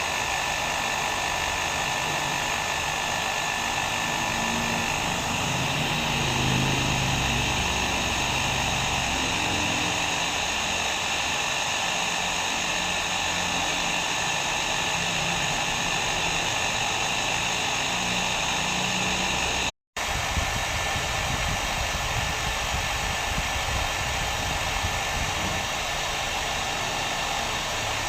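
Hair dryer running steadily: a continuous rush of blown air with a thin, steady whine. The sound drops out for a split second about twenty seconds in, then carries on unchanged.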